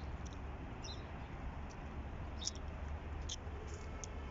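Scattered short, high bird chirps, about half a dozen, over a steady low hum.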